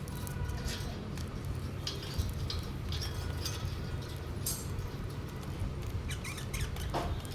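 Pet budgerigars making short, scattered high chirps and ticks over a steady low hum.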